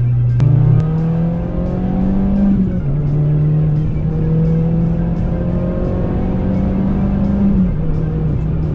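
Citroën C2 VTS's 1.6-litre four-cylinder engine pulling under acceleration: its note climbs steadily and drops abruptly twice as it shifts up, about three seconds in and near the end. A sharp click comes shortly after the start.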